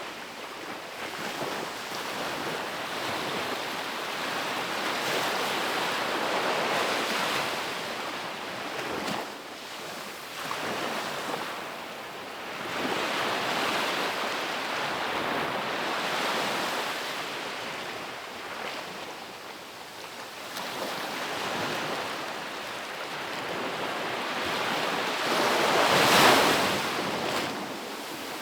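Ocean waves breaking on a beach. The surf swells and fades in slow washes every few seconds, and the loudest wave crashes near the end.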